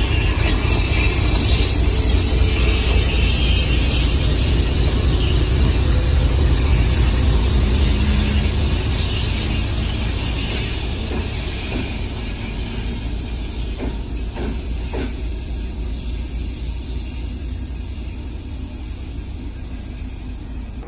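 A train passing on the tracks: a loud low rumble with hiss that fades steadily after about eight seconds as it moves away, with a few short clicks about two-thirds of the way through.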